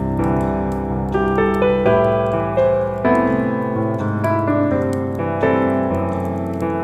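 Soft piano music with chords and a melody, played at a gentle, even pace.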